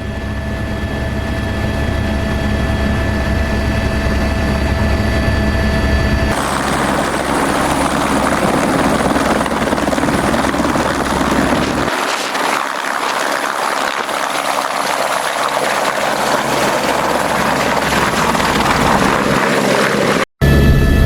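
Helicopter running: a steady turbine whine over the low beat of the rotor. The sound shifts abruptly about six seconds in, to a broader rush with less whine, and the low rumble thins out from about twelve seconds. It drops out briefly near the end, then returns with the whine.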